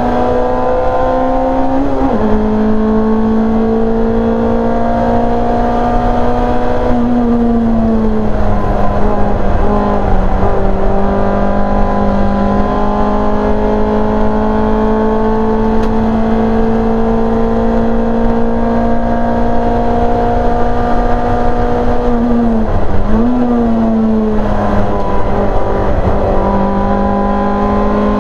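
Rear-engined Simca race car's engine running hard at high revs, heard from inside the cockpit. The pitch holds mostly steady, with a brief dip about 2 seconds in, a drop around 8 seconds in, and a quick dip and recovery near 23 seconds.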